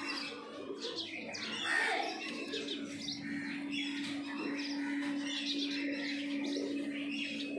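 Small birds chirping, many short quick calls overlapping throughout, with a steady low hum underneath from about two and a half seconds in.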